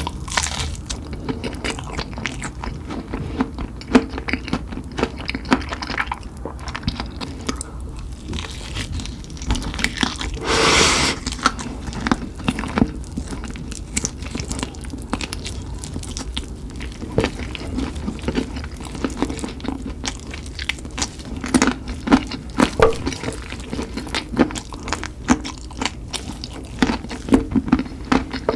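Close-up sounds of a person eating spicy chicken: biting, crunching and wet chewing, a dense run of small clicks and smacks. A louder noisy sound lasting about a second comes about a third of the way through.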